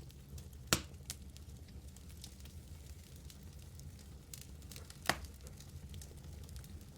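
Wood fire burning in a fireplace: a low steady rumble of flames with light crackling throughout, and two sharp pops, one about a second in and another about five seconds in.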